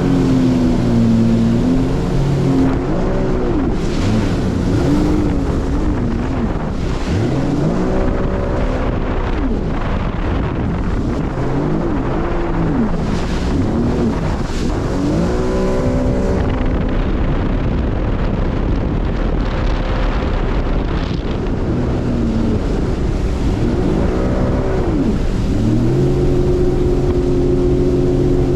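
Motorboat engine running at speed on open water. Its pitch rises and falls again and again as the throttle is worked, then settles to a steady note near the end. Wind on the microphone throughout.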